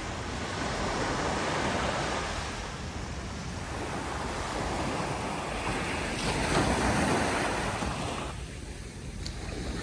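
Ocean surf washing in and out, with wind on the microphone; the noise swells and eases over several seconds.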